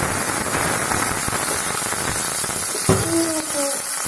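Chopped garlic, ginger, green chillies and cumin seeds sizzling steadily in hot oil in a frying pan, with a continuous crackle.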